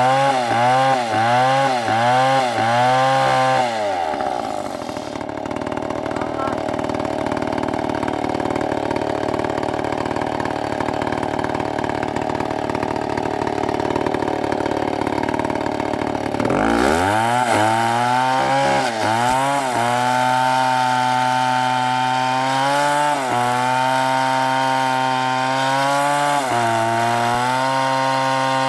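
STIHL chainsaw cutting wood. The engine revs up and down in quick pulses for the first few seconds, then runs steadily in the cut. It revs up again about two-thirds of the way through and holds high speed with brief dips every few seconds.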